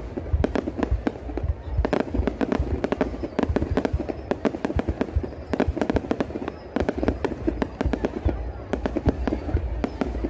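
Fireworks display: rapid volleys of sharp bangs and crackles over a low rumble, in dense clusters with short lulls between them.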